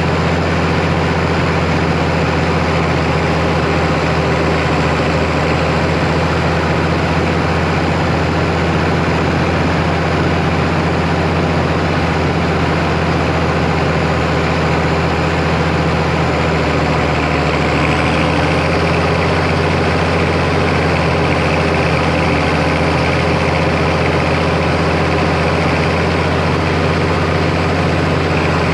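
Farm tractor's diesel engine running steadily at working speed while bush hogging, with a faint high whine that rises slightly about two-thirds of the way through.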